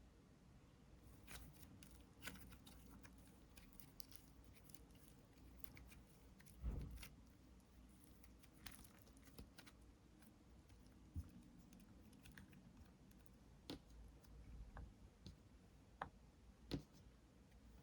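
Faint sticky clicks and small pops of a soft cream-textured slime being pressed and stretched by hand, with one soft thump about a third of the way through.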